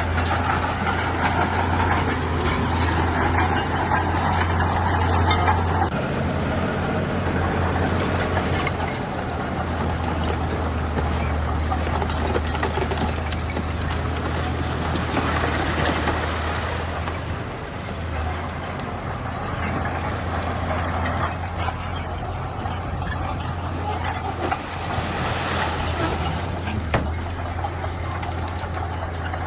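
Heavy diesel earthmoving machinery, a bulldozer at work, running steadily with a deep engine hum whose pitch and load shift a few times, and a few sharp metallic clanks near the end.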